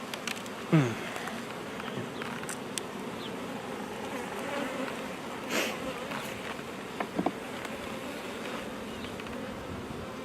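Honey bees buzzing steadily around an open hive. One bee passes close with its buzz dropping in pitch just under a second in. A few sharp clicks and knocks come from a hive tool prying at frames stuck together with propolis.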